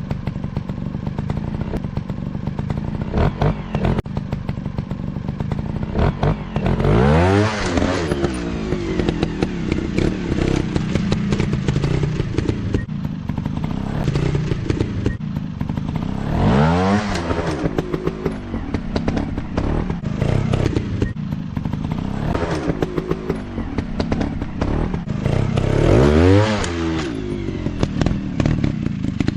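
Off-road trail motorcycle engines running, with the revs climbing sharply three times as the throttle is opened, and rattling and scraping over rough ground.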